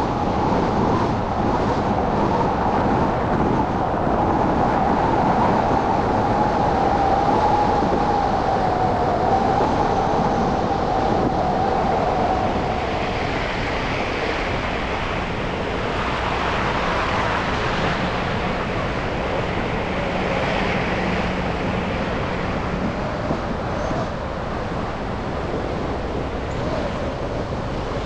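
City street traffic and road noise heard from a moving car on snowy streets. A steady whine slowly falls in pitch over the first dozen seconds, then a hiss of passing traffic swells and fades.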